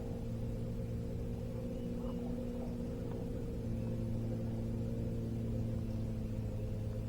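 Boat motor running at a steady speed, a constant low hum.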